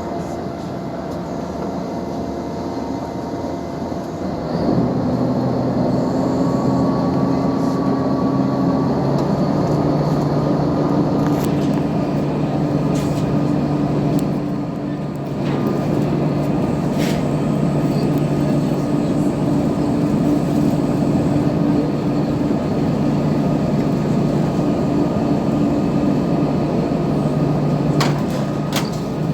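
Scania marine diesel engine running with a steady low hum; about five seconds in it picks up to a louder, higher note, eases off briefly around fifteen seconds, then holds steady again.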